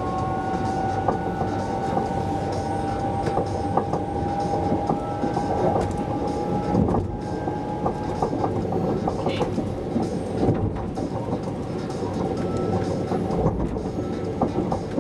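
Inside an SJ 3000 (X55) electric train under way: a steady rumble of wheels on rail, with scattered sharp clicks as the wheels cross rail joints and points. A whine rises slightly in pitch for the first seven seconds or so, then fades out.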